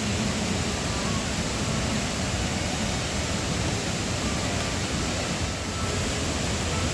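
Steady, even rushing of falling water from a mountain waterfall.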